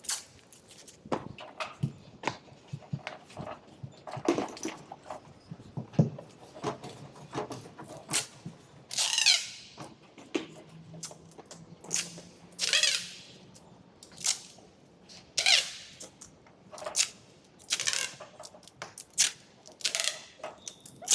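Bodywork being worked by hand: short squeaking scrapes with sliding pitch come every few seconds, among many light taps and clicks.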